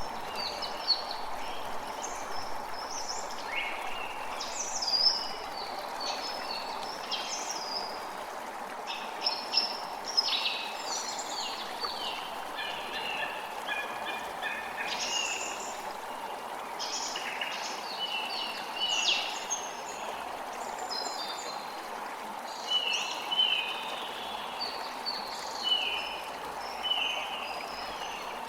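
Creek water running steadily, with many birds singing and calling over it. Near the end one bird repeats a short call about once a second.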